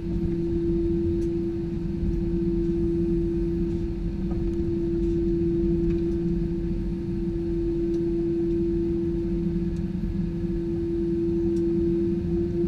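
Airbus A320-214 jet engines running: a steady drone with a strong steady hum tone over a low rumble, the tone rising slightly near the end.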